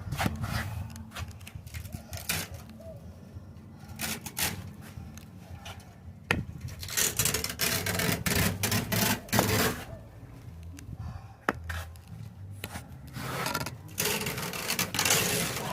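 Irregular scraping and rubbing with scattered clicks and knocks, over a low steady rumble; it gets louder for a few seconds around the middle and again near the end.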